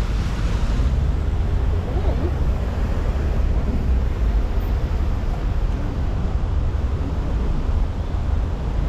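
Steady road traffic: a continuous low rumble of passing vehicles with tyre hiss on wet pavement.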